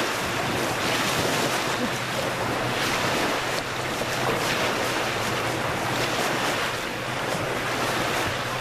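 Steady rushing and splashing of open water, a dense even hiss with no pauses.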